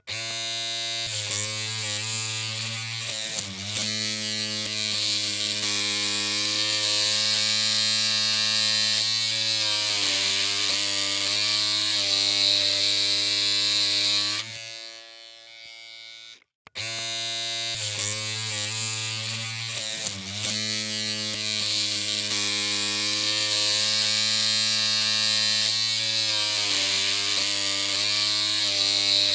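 Electric hair clippers humming, a steady buzz with many overtones whose pitch wavers briefly a few seconds in. About halfway through the hum fades down and cuts out for a moment, then the clippers start up again.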